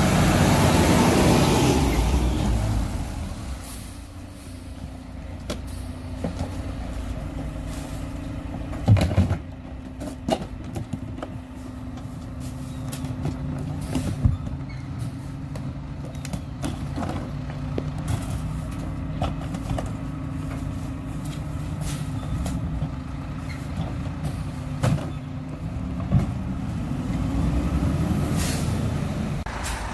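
Garbage truck's diesel engine running steadily, louder in the first two seconds and again near the end. Scattered knocks and clanks sound over it, the sharpest about nine seconds in.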